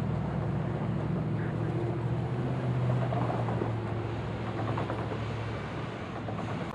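Light rail train running through the station, a low steady drone of its motors over rolling noise. The drone swells about halfway through and fades near the end.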